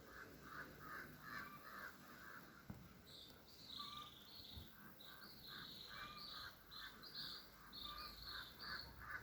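Faint birds calling, with quick runs of short repeated calls. A higher series of calls joins from about three seconds in.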